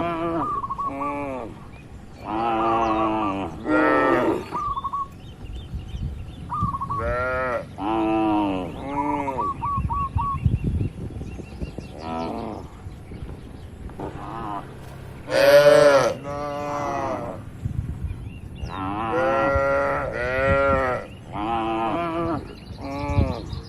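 A herd of cattle in a pen mooing repeatedly. Several animals call one after another and sometimes over each other, some calls low and drawn out and some short and higher. The loudest call comes about fifteen seconds in.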